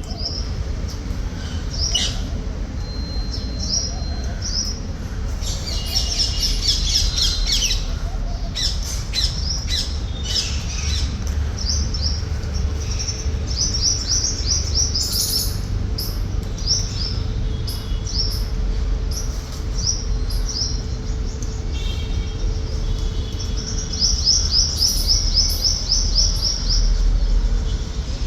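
Alexandrine parakeets chirping in quick runs of short, high chirps, densest about six to ten seconds in and again near the end, over a steady low rumble.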